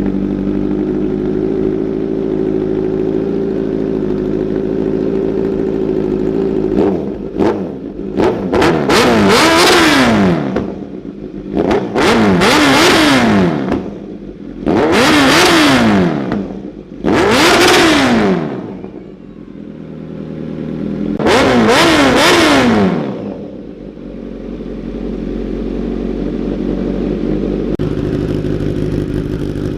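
Kawasaki Z900's inline-four idling loudly through an Arrow full-system exhaust with the dB killer removed. About seven seconds in it takes a few quick throttle blips, then five longer revs that each rise and fall, before settling back to idle. The sound is echoing in a basement.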